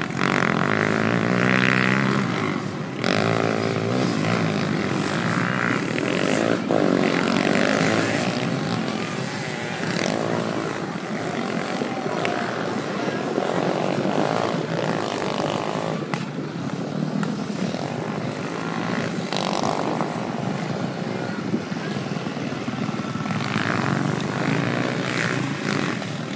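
Several motocross dirt bike engines revving hard, their pitch repeatedly rising and falling as the bikes accelerate, shift and pass.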